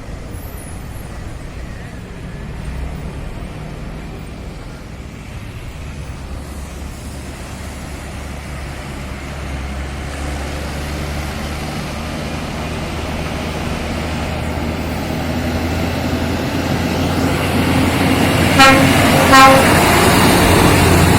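Scania P380 heavy truck's diesel engine drawing steadily closer and louder, with two short horn toots less than a second apart near the end.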